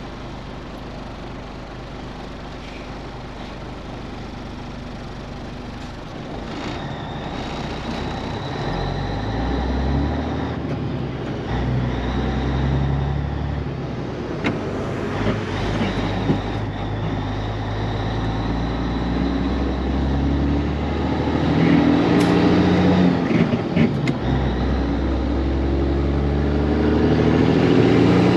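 Cabover semi-truck's diesel engine pulling through the gears: its pitch climbs, drops at each shift and climbs again several times, getting louder toward the end.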